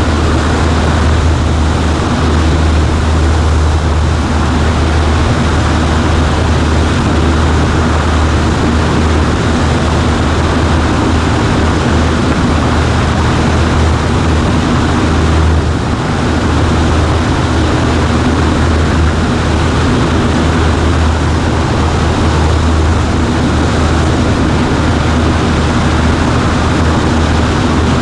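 Cessna 140A's piston engine and propeller droning steadily in flight, a strong low hum under a broad rush of air noise. The level dips briefly about halfway through.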